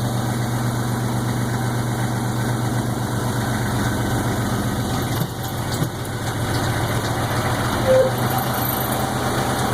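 Tour tram's engine running with a steady low hum as the tram moves on after a stop, with a few faint knocks and rattles.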